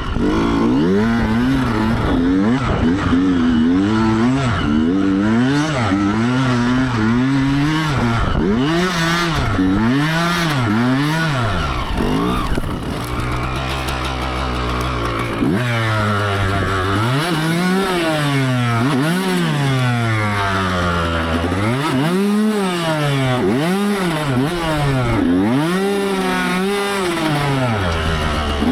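Yamaha YZ125 two-stroke dirt bike engine being ridden hard. It revs up and drops back over and over, its pitch rising and falling every second or so, and holds a steadier, lower note for a few seconds about halfway through.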